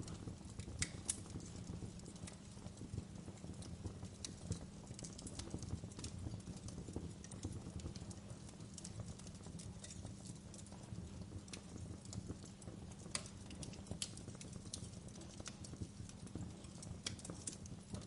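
Wood fire crackling in a fireplace: sharp irregular pops and snaps over a steady low rumble of the flames.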